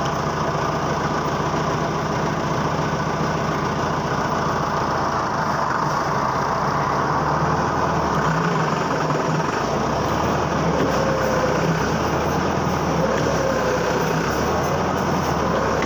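Massey Ferguson tractor's diesel engine running steadily, its note shifting slightly past the halfway point.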